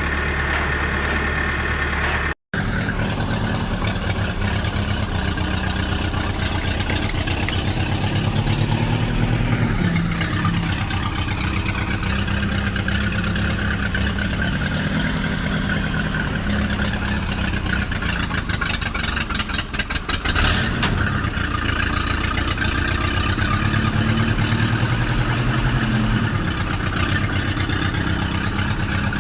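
A vehicle engine running, its pitch rising and falling a few times as it revs, cutting in abruptly after a brief dropout, with a spell of rapid clicking about two-thirds of the way through.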